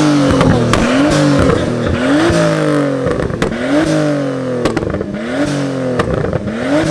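Car engine being revved in repeated quick blips, about one a second, its pitch shooting up and sagging back each time, with sharp exhaust pops and crackles as it comes off the throttle.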